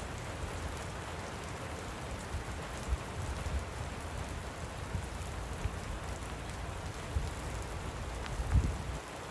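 Steady light rain falling, an even hiss of drops, over a low rumble, with a few short low thumps, the loudest near the end.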